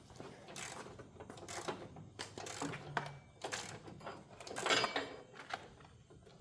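Irregular light metallic clicks, clinks and scrapes of hand tools and bolts being handled while fitting fog-light mounts, with a louder scrape just before the five-second mark.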